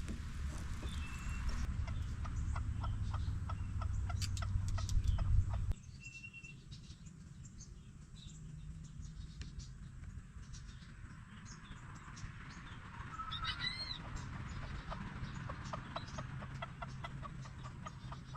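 Domestic chickens clucking, short repeated clucks throughout with a rising call about two-thirds of the way through. A low steady rushing noise underneath stops suddenly about six seconds in.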